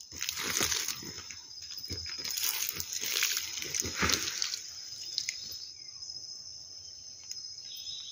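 Irregular rustling and light knocks for the first four seconds or so, then quieter, over a steady high-pitched insect drone.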